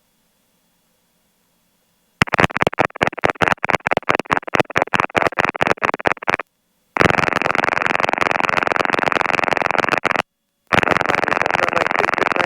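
R22 helicopter cockpit noise from the engine and rotor, heard through a voice-activated headset intercom. The intercom is silent at first, then cuts in and out rapidly for about four seconds before staying open, with two brief dropouts, as the helicopter lifts into a hover.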